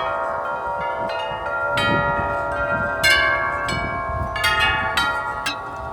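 Several large tuned metal wind chimes ringing in gusty wind, with many overlapping sustained tones and frequent new strikes as the clappers hit the tubes, over a low rumble of wind.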